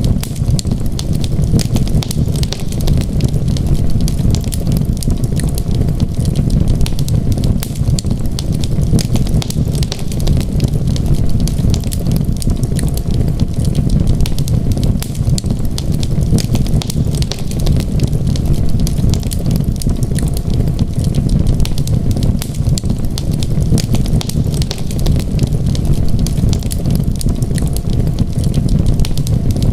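Wood fire crackling in a fireplace, a constant stream of small pops and snaps over a steady low rumble.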